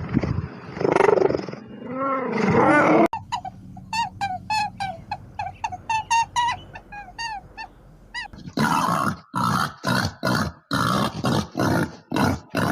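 A string of different animal calls cut one after another: loud, deep calls that rise and fall in pitch, then a sudden switch about three seconds in to a quick run of short high calls, then about ten harsh calls in fast succession in the last few seconds.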